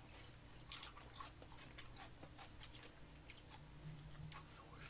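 Faint chewing of fried chicken: soft, irregular clicks and crunches from mouths and chopsticks.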